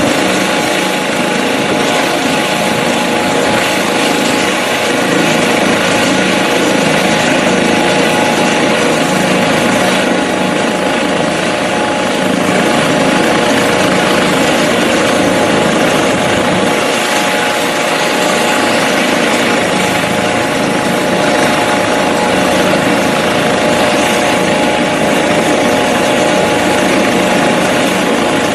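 Helicopter running steadily: a constant turbine whine over the loud, even noise of the engine and rotor.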